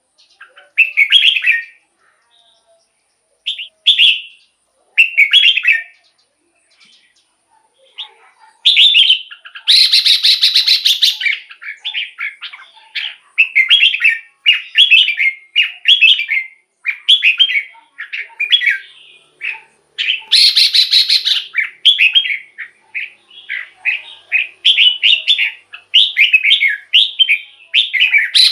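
Red-whiskered bulbul singing: a few short whistled phrases with gaps, then a near-continuous run of quick, varied phrases from about a third of the way in. The song is broken twice by a loud, harsh, scratchy call.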